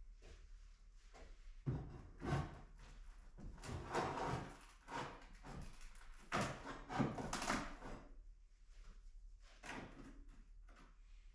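Hardboard (fibreboard) sheets being torn up off a wooden plank floor: irregular knocks and thuds with longer scraping stretches, busiest in the middle and quieter near the end.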